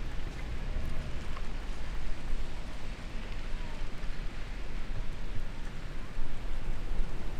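Steady storm rain with gusty wind, an even hiss with a low rumble underneath.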